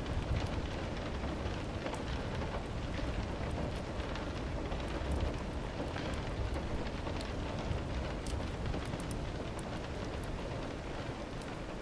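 Rain falling steadily over a deep, low rumble, with small sharp crackles of a wood fire scattered through it.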